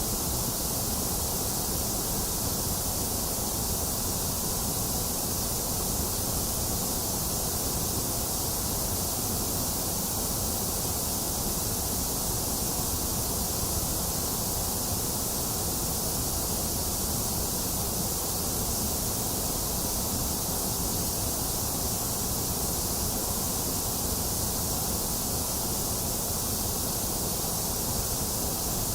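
Steady, unchanging white noise: a continuous, even hiss strongest in the highs, with no events or changes.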